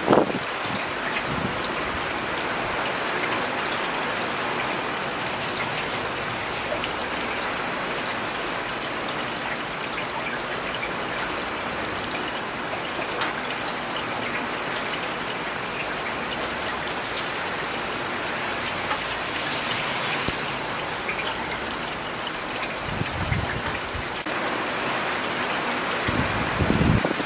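Steady rain falling, an even patter and hiss, with brief low rumbles twice near the end.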